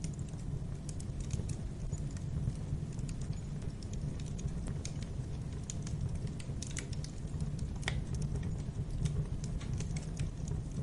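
Wood fire crackling in a fireplace: scattered sharp crackles and pops at irregular moments over a steady low rumble.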